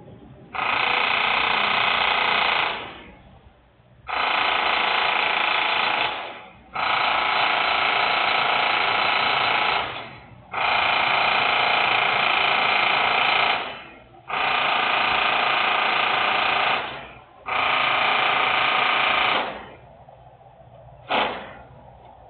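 Loud industrial machinery noise in six bursts of two to three seconds each, about every three and a half seconds, each starting abruptly and tailing off, then two short blasts near the end.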